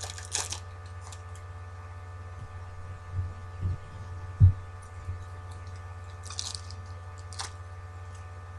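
Thin foil baseball-card pack wrappers crinkling and tearing in short bursts, at the start and twice near the end, with a few dull thumps from handling at the table in the middle. A steady electrical hum runs underneath.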